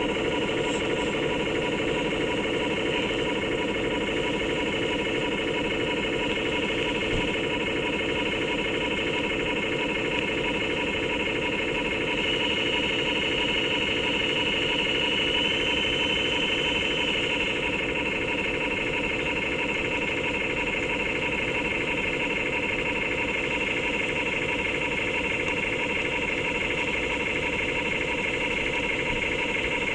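RC model tug's engine sound module playing a steady running-engine sound through a small speaker, with a fast even throb. A higher whine grows stronger for a few seconds about twelve seconds in.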